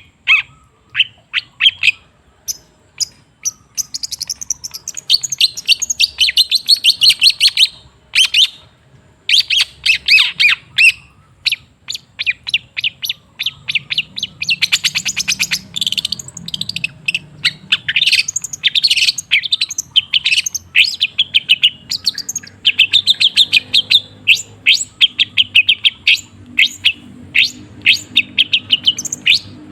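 Long-tailed shrike (cendet) singing: fast runs of short, sharp chirps and scratchy notes, broken by brief pauses.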